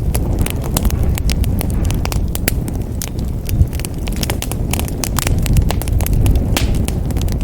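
Wood fire burning in a fireplace: dense, irregular crackling and popping over a steady low rumble of flames.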